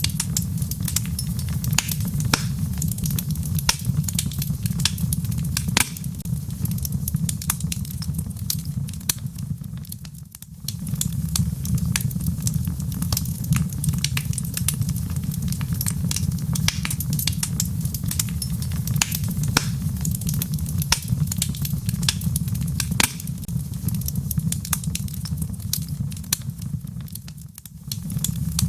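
Wood logs burning in a fireplace: a steady low rumble of flame under frequent sharp crackles and pops. The whole sound dips briefly about ten seconds in and again near the end.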